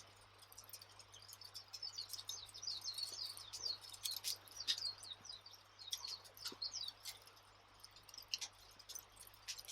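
Campfire crackling, with sharp scattered pops, while small birds chirp rapidly in the background. The chirping is busiest from about a second and a half in until about seven seconds.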